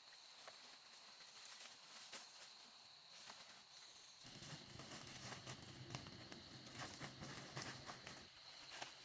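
Near silence: faint scattered clicks and taps, with a low hum that comes in about four seconds in and fades shortly before the end.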